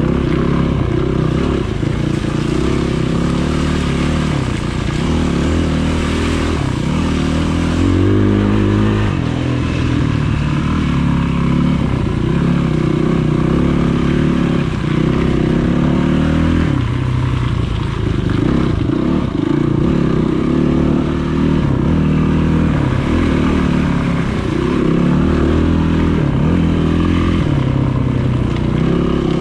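Yamaha enduro motorcycle engine revving up and down as the throttle is opened and shut again and again, its note rising and falling every second or two.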